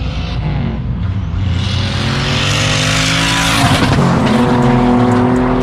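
Turbocharged Nissan 350Z's V6 accelerating hard, its engine note rising in pitch to a loud rush of noise about three or four seconds in, then settling to a steadier note. The turbocharging can be heard in it.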